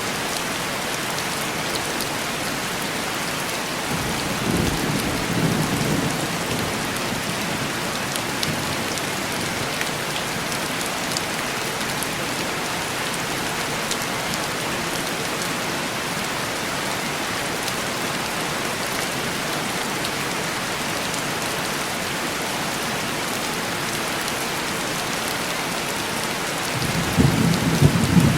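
Steady heavy rain pattering on window glass, with distant thunder rumbling low twice: once about four seconds in, and again building near the end.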